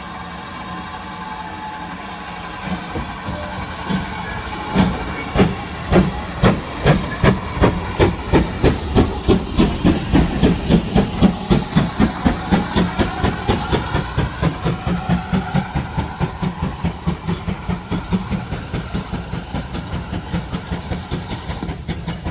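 GWR 56xx-class 0-6-2 tank locomotive 5619 starting a train: a steady hiss of steam, then exhaust beats begin about three seconds in and quicken as it gets away, settling into a regular chuffing that fades a little near the end.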